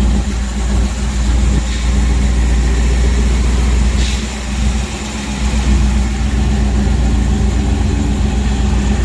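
1969 Dodge half-ton pickup's engine idling steadily, with a brief drop in level about halfway through.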